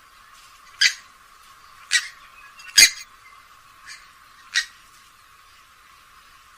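Grey-headed swamphen giving five short, sharp calls about a second apart, one of them faint.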